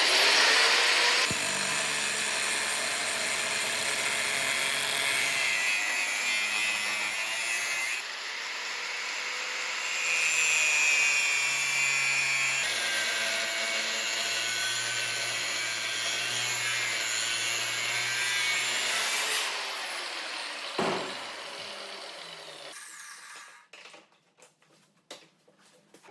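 Electric power tool starting up and running steadily for most of the stretch, then winding down over a few seconds near the end.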